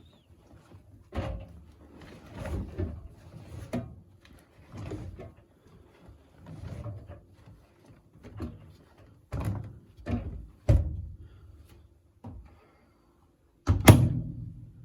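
Irregular knocks and thumps, about a dozen, from a Servis M2110 tumble dryer, over a faint steady hum. The loudest knock comes near the end.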